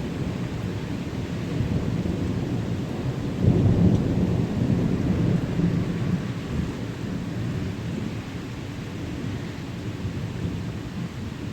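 Long rolling thunder over steady rain. The rumble swells suddenly about three and a half seconds in, then slowly dies away.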